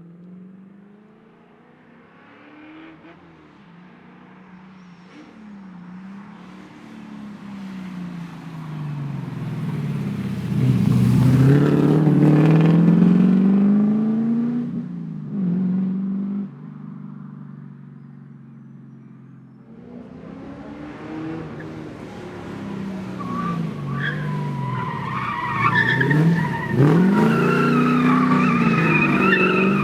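Holden Commodore SL/E rally car's engine revving hard and backing off through the gears, the pitch rising and falling repeatedly, loudest about a third of the way in. After a sudden change about two-thirds of the way in, the engine is heard working hard again with tyres squealing through the last few seconds.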